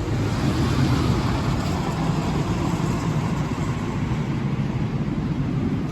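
Amusement-park miniature train running along its track: a steady low rumble.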